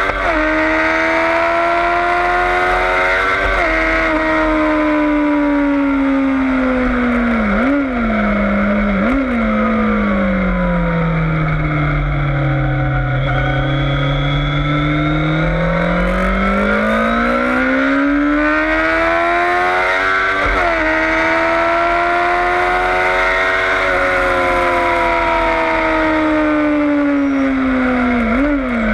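Yamaha FZS600 Fazer's inline-four engine heard on board at track pace: it revs up and drops pitch at upshifts just after the start and about three and a half seconds in, then gives two throttle blips on downshifts about eight and nine seconds in. The revs sink slowly through a bend to their lowest about thirteen seconds in, climb hard again to an upshift about twenty seconds in, and end with another downshift blip, over a steady rush of wind noise.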